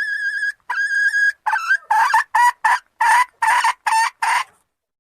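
Junglefowl hen calling: two drawn-out high notes, then a quick run of about eight short clipped calls that stops shortly before the end. This is the hen's call that draws a male junglefowl.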